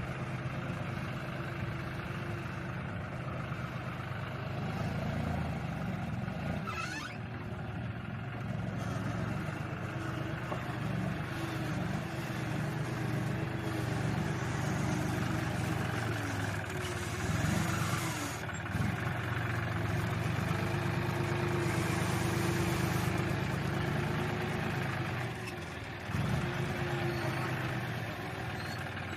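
Diesel tractor engine running while it works a front loader, its pitch rising and falling with the load, with a couple of louder moments about two-thirds of the way through and near the end.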